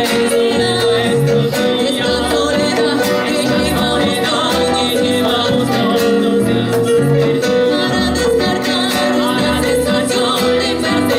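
Live band playing a Latin song, with a sung vocal over a steady beat, bass and guitar.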